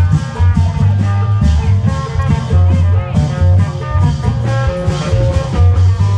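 Isan klong yao (long-drum) procession music: deep long-drum beats repeating under a lively amplified plucked-string melody.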